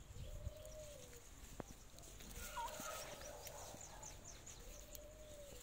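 Faint drawn-out calls from a bird in the garden: two long notes of about a second each, one near the start and one near the end, dipping in pitch as they end, with a few faint high chirps between.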